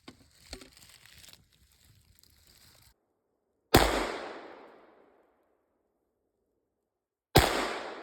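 Two loud, sharp bangs about three and a half seconds apart, each trailing off in a long, echoing decay, after a few seconds of faint noise.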